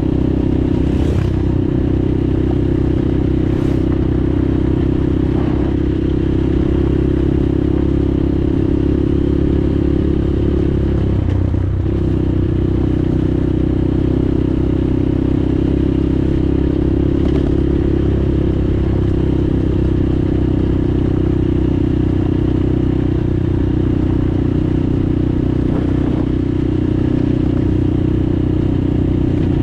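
Progasi Super Max 250 enduro motorcycle's 250 cc engine running at a steady cruising pace, with a brief dip and recovery in revs about twelve seconds in. A few light clicks and knocks sound here and there over the engine.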